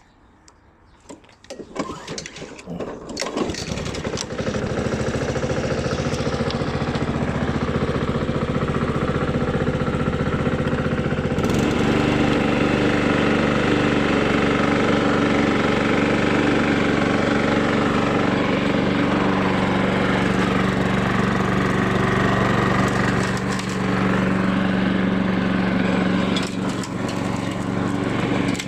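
Honda GCV135 single-cylinder four-stroke engine on a self-propelled rotary lawnmower being pull-started: a few quick pulls and clicks, then it catches a few seconds in and runs steadily, picking up speed and getting louder about a third of the way through.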